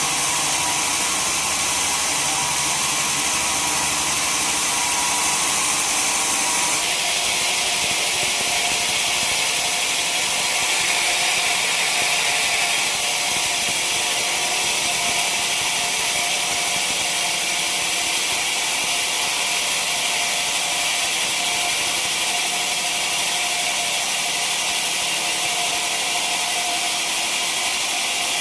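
Sawmill saw running and cutting timber: a loud, steady machine noise, mostly high-pitched, that changes abruptly about seven seconds in.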